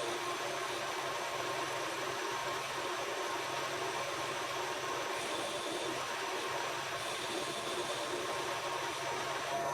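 A machine tool running steadily: a motor and spindle hum with an even hiss of cutting or running noise.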